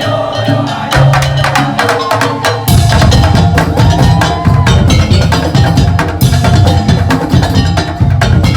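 Madurese musik tong-tong (ul daul) percussion ensemble playing: fast, dense strokes on wooden slit drums and drums. Heavy bass drumming comes in about three seconds in.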